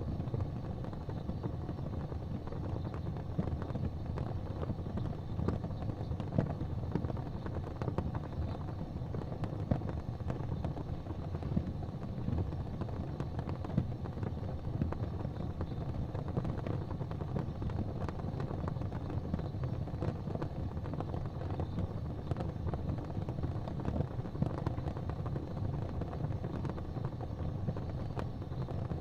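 Fireplace fire crackling, with frequent small pops and snaps over a steady low rumble.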